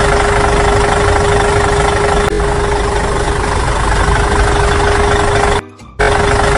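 A small motor running steadily, a loud engine-like drone with one constant hum, cutting out for a moment near the end.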